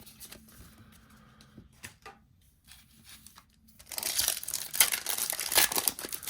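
Foil booster pack wrapper being torn open and crinkled: faint handling clicks, then a loud crackling that starts about four seconds in.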